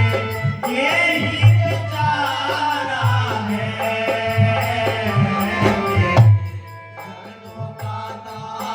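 Devotional shabad singing with instrumental accompaniment and a regular drum beat. The voice carries the middle of the stretch, and the music drops much quieter about two-thirds of the way through, then builds again near the end.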